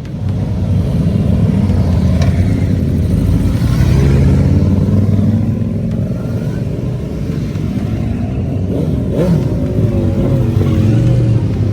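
Motorcycle engines running and revving, several at once, their pitch rising and falling.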